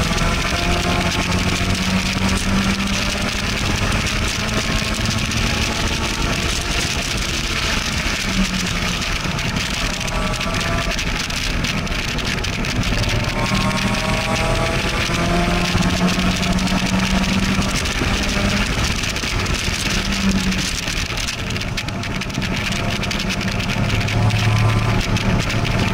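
Sports car engine heard from inside the open-top cabin while lapping a track, its note climbing several times under acceleration and easing off between, over a steady rush of wind and road noise.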